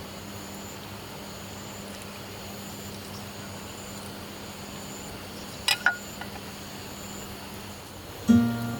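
Steady low background hiss with a faint hum. Two sharp clicks come about six seconds in, and acoustic guitar music starts near the end.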